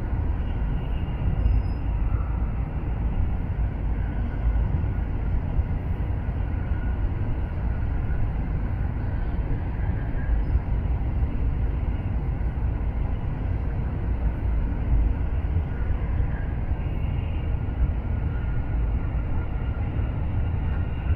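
Shinkansen bullet train running, heard from inside the passenger car as a steady low rumble of rolling and air noise.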